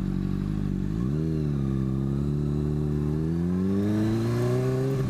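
Motorcycle engine pulling under acceleration through its aftermarket exhaust: the pitch climbs about a second in, then rises steadily before dropping away near the end.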